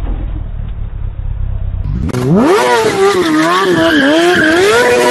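A low rumble, then about two seconds in a high-revving vehicle engine whose pitch climbs sharply, wavers up and down with the throttle, and then holds high.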